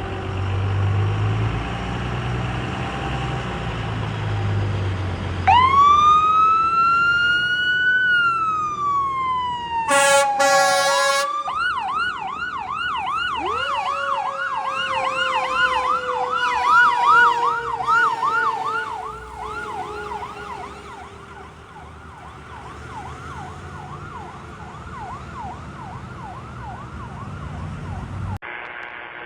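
Responding fire apparatus: a diesel engine running, then a siren winds up into a wail and falls, a short air horn blast sounds about ten seconds in, and a fast yelp follows while a second siren winds up and slowly coasts down. The sirens fade as the vehicles move away, and the audio cuts off near the end.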